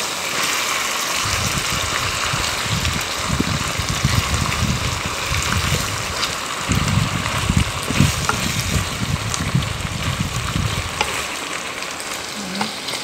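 Chicken pieces sizzling as they fry in hot oil in a pan, with a spatula stirring and scraping them through the pan from about a second in until near the end.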